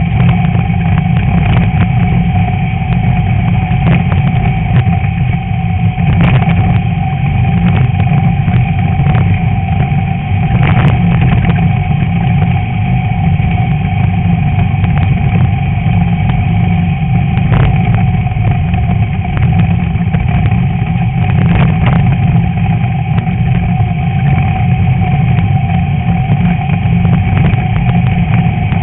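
Air-cooled VW Beetle flat-four engine running hard at a near-steady pitch during an off-road race, with frequent irregular knocks and rattles from the car.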